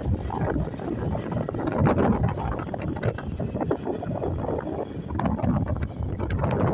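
Wind buffeting the microphone on a moving Honda 160 motorcycle, in uneven gusts, with the bike running underneath.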